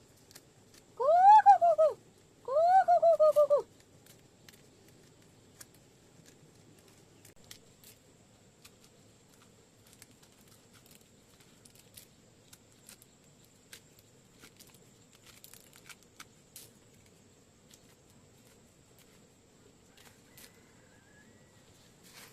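Two loud, wavering calls from an animal, each arching up and then down in pitch, about a second apart, followed by faint scattered clicks.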